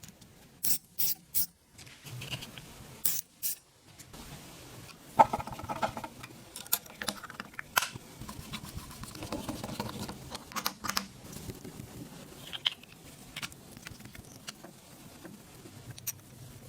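Hand work on metal fan parts: a run of sharp clicks and taps, with a loud clank about five seconds in that rings briefly.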